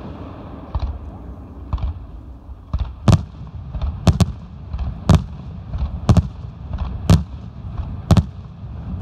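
Fireworks display: aerial shells bursting in a steady series of sharp bangs about once a second, the first few fainter.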